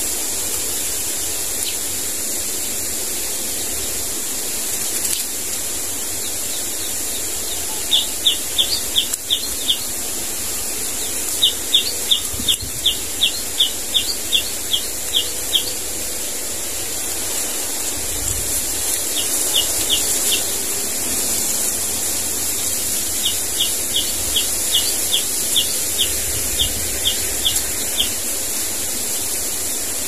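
A bird calling in runs of short, sharp, high notes, about three a second, four runs in all, over a steady hiss.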